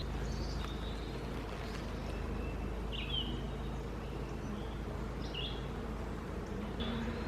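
A few short, high bird chirps over a steady low hum.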